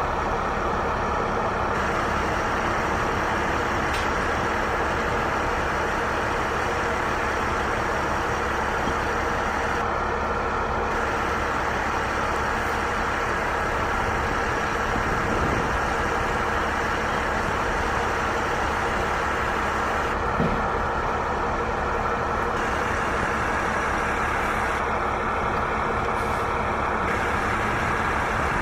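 Steady, unchanging engine noise of an idling vehicle.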